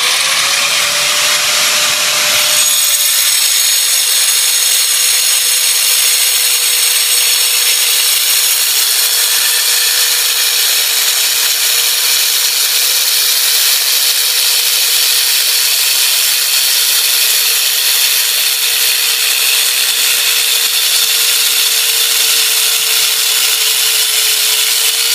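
Power saw cutting through travertine stone in one long, steady pass, its blade-and-motor tone holding level, with a vacuum dust-capture system running alongside.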